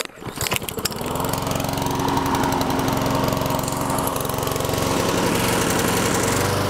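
Honda engine of a Troy-Bilt 21-inch walk-behind lawn mower being pull-started cold on choke. A few sputters come in the first second, then it catches on the first pull and runs steadily.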